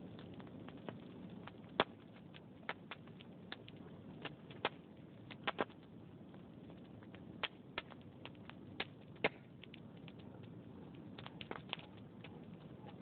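Wood fire burning in a fireplace: sharp, irregular crackles and pops from the logs over a low, steady hiss of flame.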